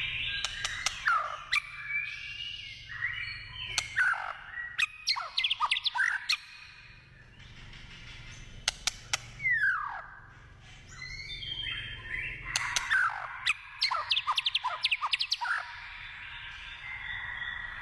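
White-rumped shama singing a varied song of whistled phrases, falling slurred notes and fast runs of sharp ticking notes, with a couple of short lulls partway through.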